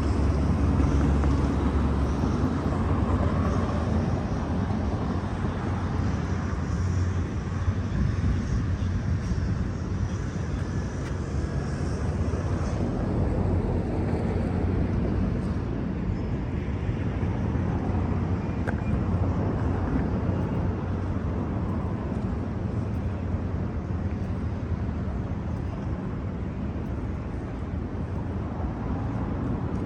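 Steady low rumble of urban background noise, even throughout with no distinct events.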